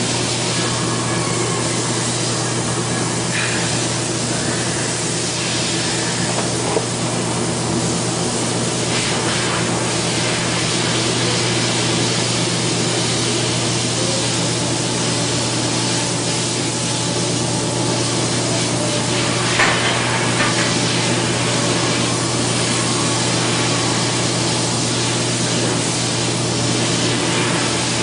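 TIG welding arc running steadily: a continuous hiss over a low electrical hum, with a few short clicks.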